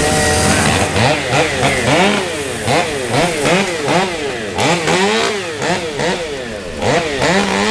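Chainsaw engine revving up and down over and over as the throttle is squeezed and released, rising and falling in pitch about twice a second.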